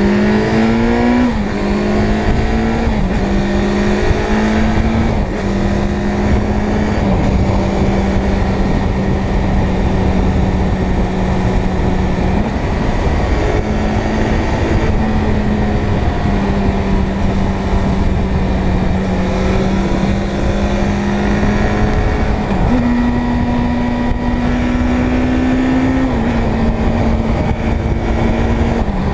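Inline-four motorcycle engine running at steady cruising revs, with heavy wind rush on the microphone. The engine note dips briefly about twelve seconds in, then climbs a little two-thirds of the way through before settling back.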